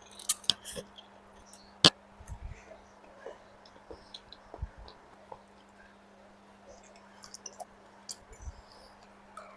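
Eating instant noodles up close: scattered soft mouth clicks and chewing, with one loud sharp click about two seconds in, over a faint steady hum.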